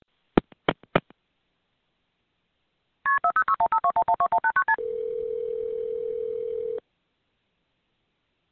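Telephone line sounds as a call connects: a few clicks, then a fast run of about sixteen touch-tone (DTMF) dialing beeps, then one steady ringing tone about two seconds long.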